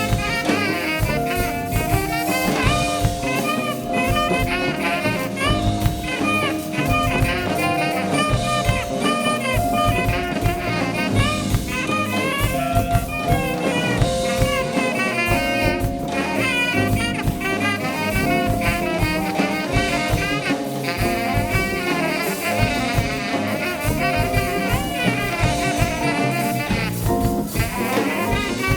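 Live band playing jazzy music: horns including saxophone holding long notes and playing busy lines over a drum kit, without a pause.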